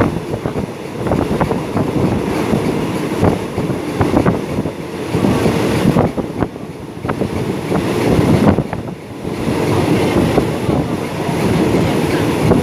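Passenger train running at speed, heard from inside a carriage: a steady rumble and rushing air with repeated clicks of the wheels over the rail joints.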